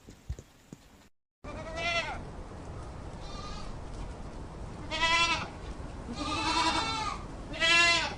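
A goat bleating five times over a steady background, the longest call wavering and the last the loudest. A few faint knocks and a short silence come before the calls.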